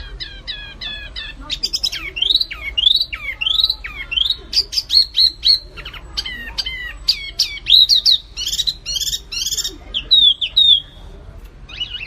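Small songbirds, wambi mini and kapas tembak, singing a fast, varied song: a quick run of repeated downslurred whistles at the start, then rising and falling whistled notes mixed with harsh, scratchy notes near the end.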